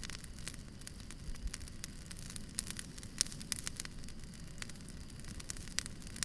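Campfire burning, with irregular sharp crackles and pops of burning wood over a low steady rumble of the flames.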